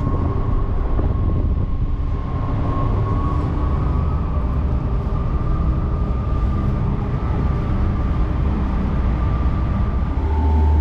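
Motorcycle running steadily at road speed: a continuous engine drone under rushing wind noise, its pitch creeping slowly upward.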